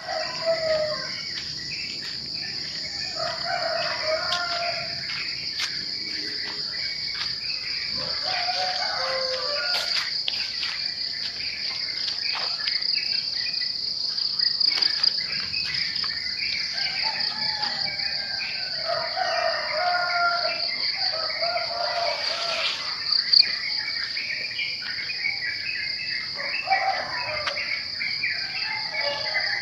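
Morning birdsong: many birds calling and singing in short, overlapping phrases, over a continuous high-pitched insect trill.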